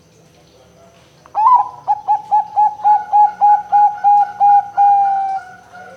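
Zebra dove (perkutut, a Bangkok-type song bird) cooing: about a second and a half in, a quick run of about a dozen short, even notes, about four a second, closing in one longer note that falls slightly and fades away.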